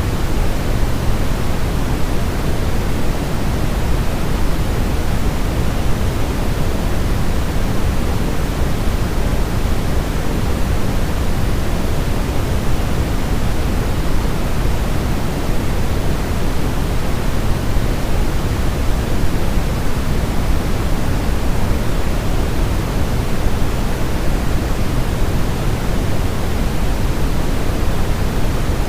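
Steady white noise for a baby's sleep, a constant hiss-and-rumble that is fuller in the low end than in the highs and never changes.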